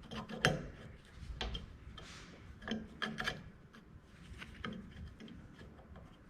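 Light clicks and small knocks of a steel square and clamped steel pieces being handled and set against each other while checking the parts for square, with a brief scrape about two seconds in.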